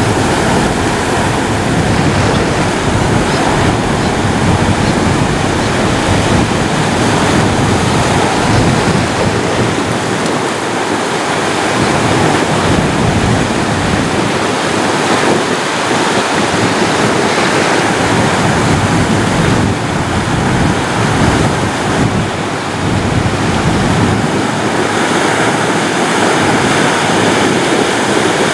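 Ocean surf: waves breaking and washing up and down a beach in a continuous loud rush, swelling and easing gently.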